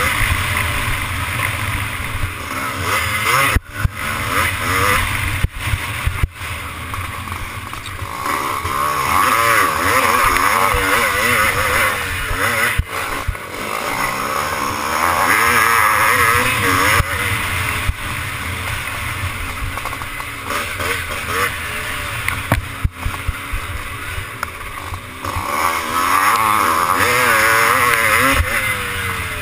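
Motocross motorcycle engine revving up and down continuously as the bike is ridden around the track, over a steady rushing hiss.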